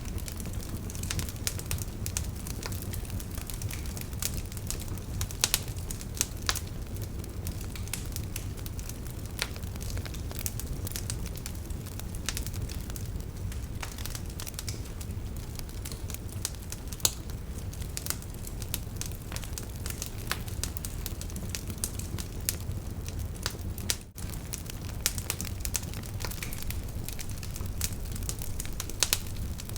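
Campfire burning: a steady low rumble of flames with frequent crackles of burning wood and occasional sharper pops. The sound cuts out for an instant about two-thirds of the way through.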